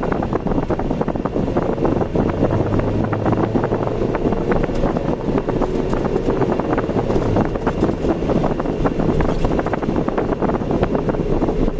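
Steady rumble of a car driving on an ordinary road, with wind buffeting the microphone in short crackles. A faint low hum sits under it for a few seconds early in the stretch.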